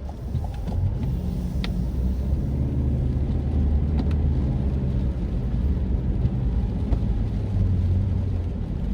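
Car driving, heard from inside the cabin: a steady low engine and road rumble that swells within the first half second as the car picks up speed, with a few faint clicks.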